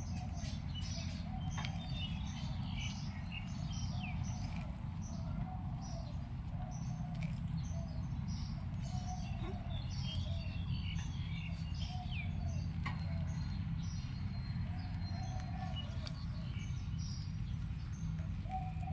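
Many short bird chirps and trills in quick succession, with a lower repeated call underneath, over a steady low rumble.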